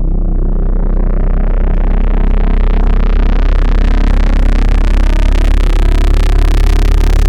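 Synthesized electrical-style hum: a loud, steady, deep tone with a stack of buzzing overtones. Its upper buzz grows steadily brighter and fuller over several seconds.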